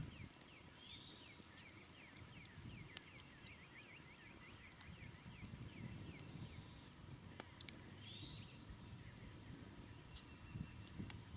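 Faint crackling of a smoldering wood campfire, with small scattered pops. A songbird sings runs of quick downward-sweeping chirps in the background, over a low rumble.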